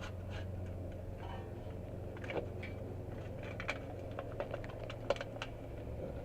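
Scattered light clicks and taps of hands handling small metal repair pieces on the exhaust, over a steady low hum.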